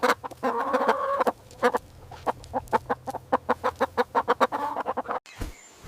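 Chicken clucking: a fast run of short clucks with one longer, drawn-out call about half a second in, cut off suddenly a little before the end.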